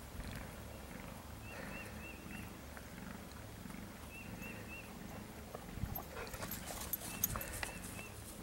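A bird calling in repeated groups of three or four quick chirped notes, over a steady low outdoor rumble. From about six seconds in, scattered light clicks and knocks join in.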